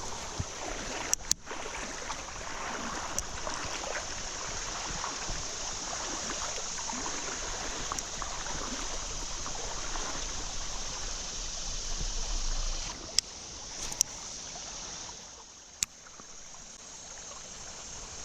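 Fast creek current rushing steadily past a kayak, with a few sharp clicks about a second in and again near the end. The water noise falls off after about thirteen seconds.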